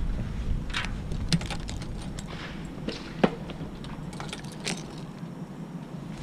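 Light clicks and short metallic jangles, over a low rumble that dies away about halfway through.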